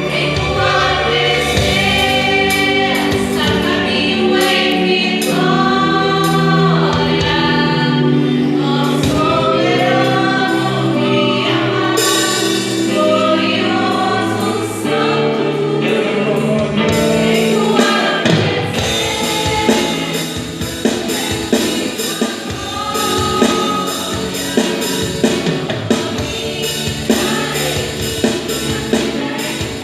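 Gospel vocal group singing in harmony over a backing band. About two-thirds of the way through, the voices thin out and a drum-led instrumental passage with a steady beat takes over.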